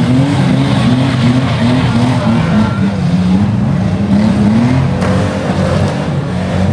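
Banger racing car engines revving hard over and over, the pitch rising again and again in short surges, with tyre noise from cars spinning and pushing against each other.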